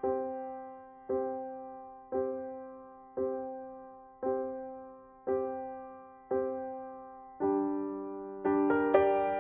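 Background piano music: a soft chord struck about once a second, each strike fading away, moving to a new chord with quicker notes near the end.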